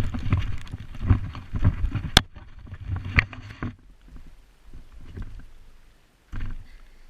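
Handling noise from a chest-strapped GoPro as the wearer moves: irregular thumps and rubbing, with two sharp clicks around the two- and three-second marks, settling down after about four seconds, with one more thump near the end.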